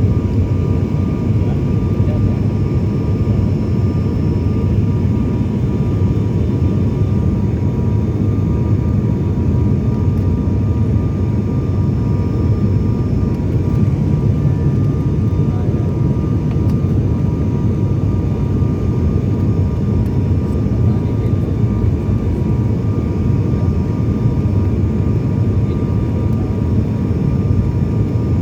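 Steady drone of a jet airliner on its landing approach, heard from inside the cabin: a deep, even rumble of engines and airflow with a faint, steady whine above it.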